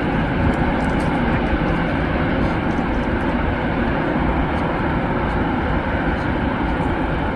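Steady jet airliner engine noise, an even roar with a deep rumble that holds at one level throughout.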